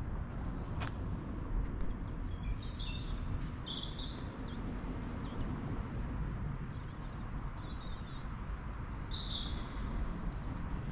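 Several small songbirds chirping and singing in short, high notes, scattered through most of the stretch, over a steady low background rumble.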